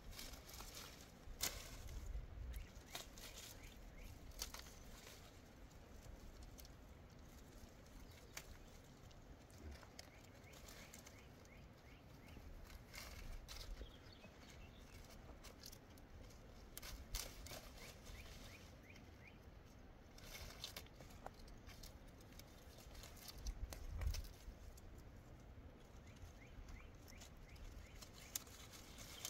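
Faint outdoor ambience with scattered light taps and clicks and a few brief low rumbles.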